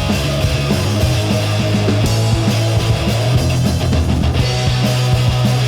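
Instrumental stretch of a rock band recording: distorted guitars, bass and drums playing steadily, with no singing.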